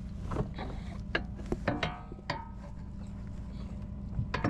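A handful of sharp metallic clinks and knocks, some ringing on briefly, over a steady low hum like an idling engine.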